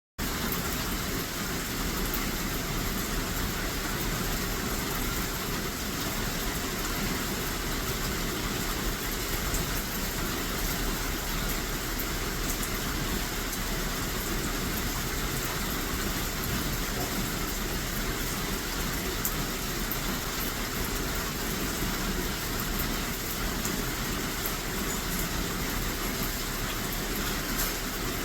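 Steady rushing noise of heavy storm rain, with faint scattered ticks of drops.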